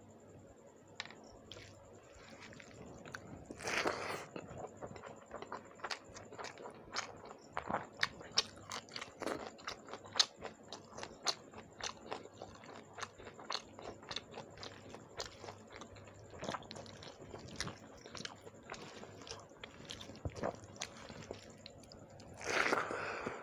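Close-miked chewing of a mouthful of shrimp curry and rice, with many sharp crunches. There are louder, fuller mouth sounds about four seconds in and again near the end, as a fresh handful goes in.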